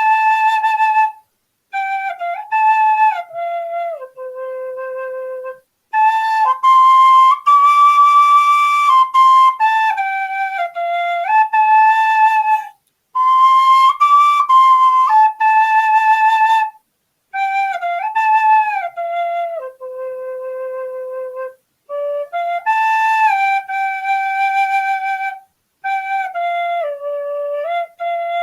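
Solo flute-like woodwind music playing a slow melody, phrases of held and stepping notes with short breaths between them.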